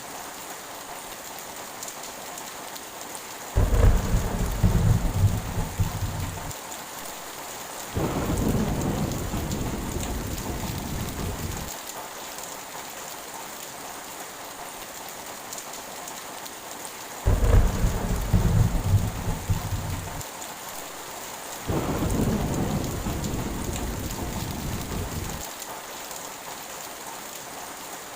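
Heavy rain falling steadily, with thunder rumbling four times in two pairs; each rumble starts suddenly and fades over three to four seconds.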